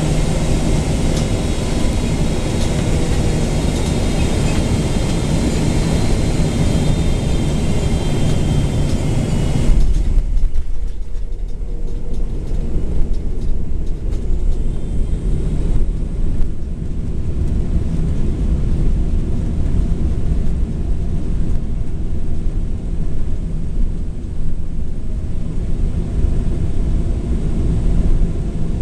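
Inside the cabin of a Boeing 777-200LR on final approach: a steady rush of airflow with faint engine whine and hum, engines near idle. About ten seconds in the hiss drops away abruptly and the sound turns to a lower, bumpy rumble with several jolts, typical of touchdown and the landing roll on the runway.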